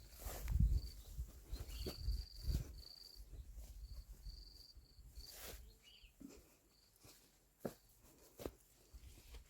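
An insect calling in short, high, even-pitched trills that stop and start, over rustling and low thumps in the first few seconds. A few sharp clicks come in the second half.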